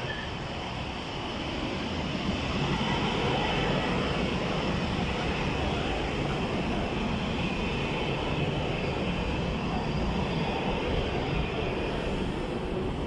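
ChS7 electric locomotive and its passenger train rolling into the station: a steady running noise that grows louder about two seconds in and then holds.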